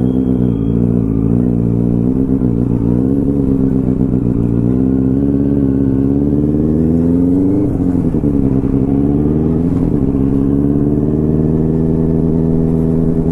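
Motorcycle engine running steadily under way, its pitch easing off and picking up again twice in the second half.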